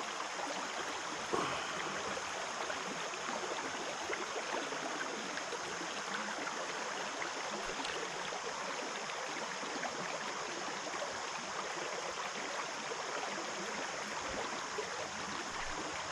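Creek water running steadily over rocks, an even rushing wash. A single brief knock sounds just over a second in.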